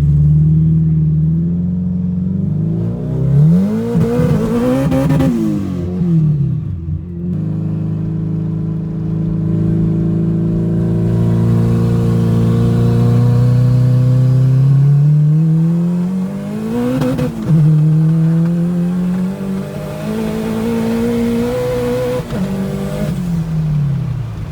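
Race car engine at full throttle during a drag race, its pitch climbing steeply through each gear and dropping suddenly at the shifts, about 5 and 17 seconds in, then falling away near the end as the throttle closes.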